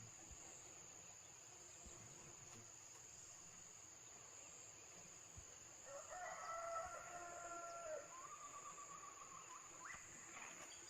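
A rooster crows once, a long crow starting about six seconds in and ending with a rising note near ten seconds, over a steady high-pitched insect drone.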